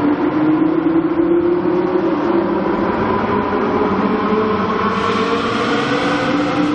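A supercar's engine running under load, one steady note that rises slowly in pitch and grows brighter from about five seconds in.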